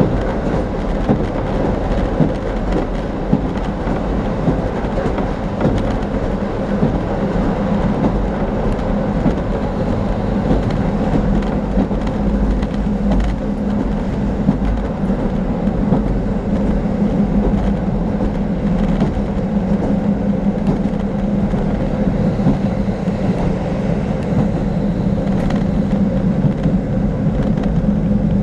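Diesel railcar running at speed, heard from inside the passenger car: a steady drone of engine and wheels on rail with a strong low hum and occasional light clicks.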